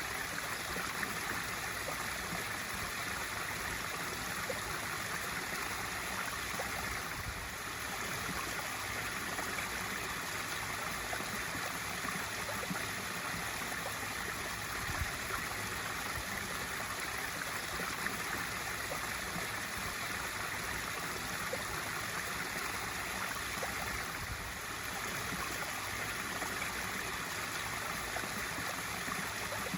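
Pool waterfall feature running: a steady, continuous splash and rush of falling water.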